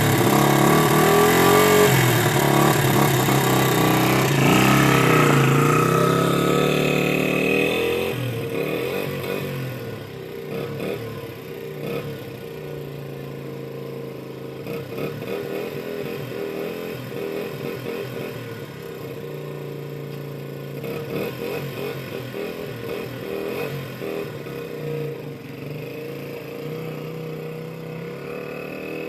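A 1992 dirt bike's engine running and revving up and down, loud for the first several seconds, then quieter and steadier from about eight seconds in.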